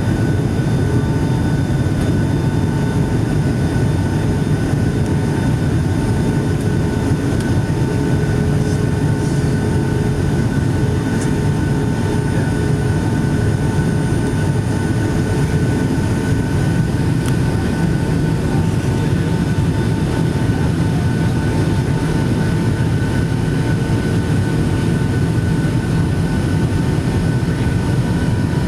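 Steady cabin noise of a Boeing 757-200 airliner: a constant low engine and airflow drone with faint steady whine tones above it.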